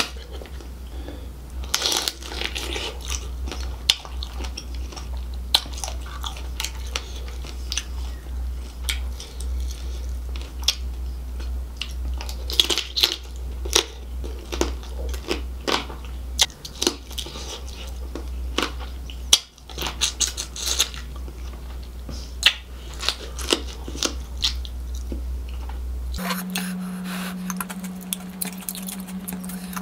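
Close-miked eating of shell-on seafood in gravy: wet chewing and smacking with many sharp, irregular crunchy clicks as crab and prawn are bitten and chewed. A steady low hum runs underneath and shifts to a higher steady hum near the end.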